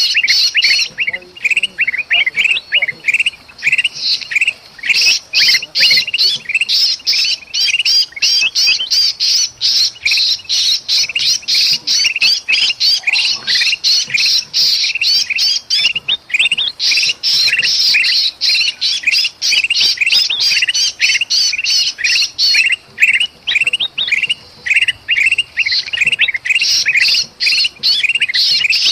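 Bulbuls calling in agitation: a dense, rapid, nearly unbroken run of harsh squawks and chirps. It is mixed with the distress calls of a trapped, pinched bulbul, the kind of alarm chatter used to lure other birds. The calling thins briefly a little past halfway.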